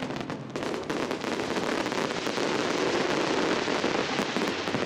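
Aerial fireworks display crackling densely: many small bursts going off close together in a continuous rattle.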